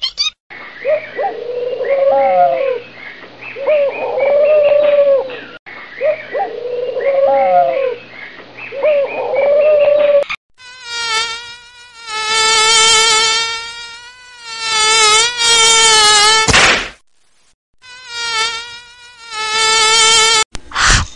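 Insect-like buzzing in long steady bouts, with short breaks, through the second half. Before it, a short run of sliding calls plays twice over.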